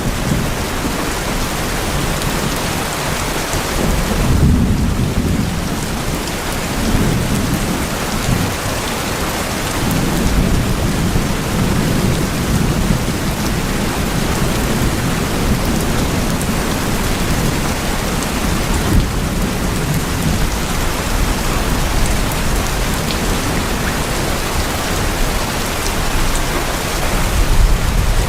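Heavy rain falling on tin roofs: a dense, steady hiss with a low rumble underneath that swells a couple of times.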